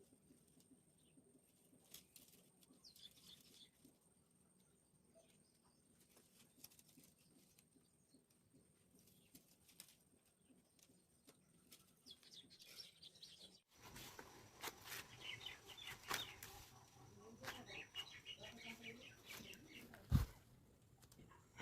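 Birds chirping faintly. The background grows louder about two-thirds of the way through, with scattered clicks and one sharp knock near the end.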